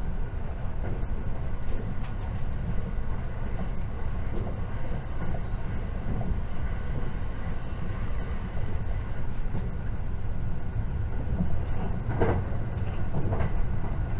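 Steady low rumble of a JR 681 series electric multiple unit running, heard from inside the passenger car, with a couple of faint clicks near the end.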